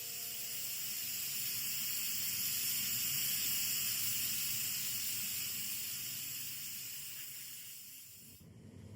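A steady, high-pitched hiss that swells, then fades and cuts off suddenly near the end.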